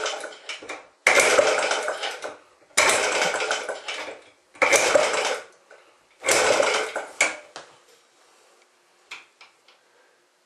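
Recoil starter of a cold antique Clinton small gasoline engine being pulled four times, a rasping whir of rope and cranking engine each time, about every second and a half. The engine does not catch: a cold start with a broken choke. A few faint clicks follow.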